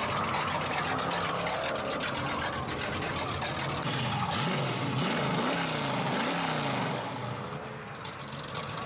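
Car engine revving, its pitch rising and falling several times in quick succession around the middle, then easing off near the end.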